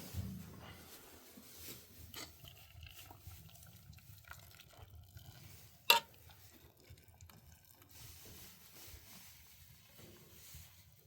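Cooking-pot sounds: faint stirring and liquid noise with small scattered clicks of utensils, and one sharp click about six seconds in.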